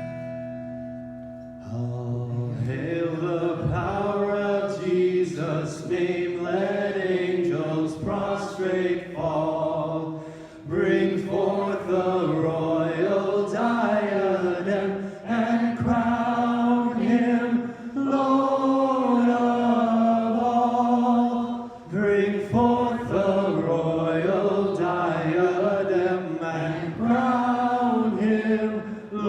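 Congregation singing a hymn together in unison, starting about two seconds in after a short held note.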